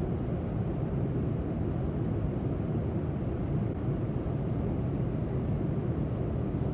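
Steady low rumble of airflow and engine noise in the cabin of a Boeing 787-9 airliner in flight.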